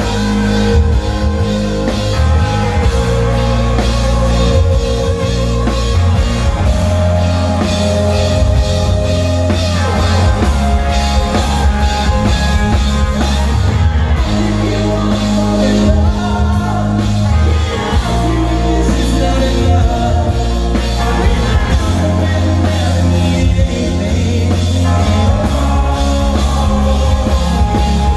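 Live rock band playing loudly, with drum kit, guitar and singing.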